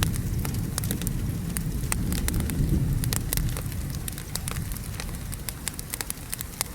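Wood fire crackling with frequent sharp pops, over a low rumble of rain and a fading thunder roll.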